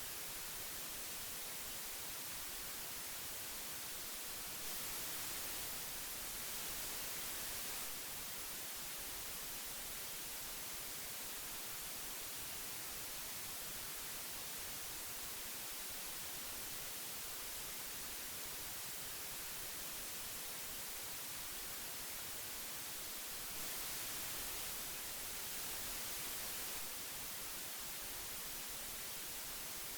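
Steady hiss of old audio tape, strongest in the high end. It turns slightly brighter and louder for about three seconds twice, around 5 seconds in and again around 24 seconds in.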